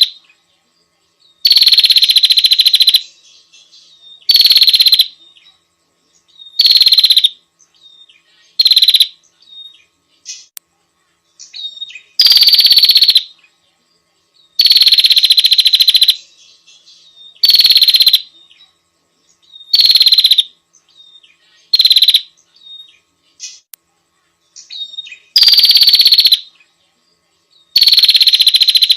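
A small songbird calling in loud, high, shrill phrases that each slide slightly downward, repeated about every two seconds with short pauses between.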